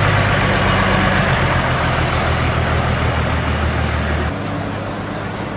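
A heavy vehicle's engine running steadily with a dense rushing noise over it. About four seconds in, the sound drops and changes abruptly.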